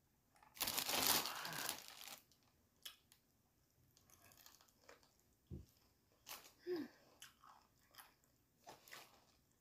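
Crispy fried chicken being bitten and chewed close to the microphone: crunchy bites of the fried coating and chewing, with the loudest crunching in the first two seconds and short scattered crunches after.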